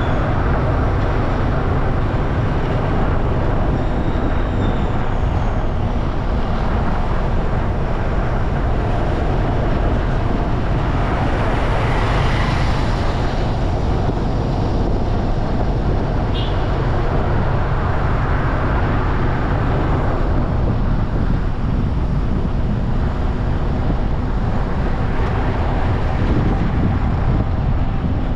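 Steady rumble of wind and road noise while riding through traffic, heaviest in the low end. Traffic swells briefly a little under halfway through, and a short high beep comes just past halfway.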